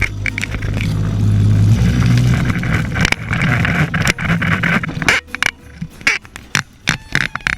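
Small kids' dirt bike engine running, growing louder over the first two seconds and dropping away about five seconds in, followed by scattered clicks.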